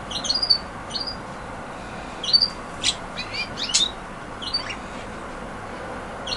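Budgerigars chirping: a dozen or so short, high chirps and squeaks at irregular intervals.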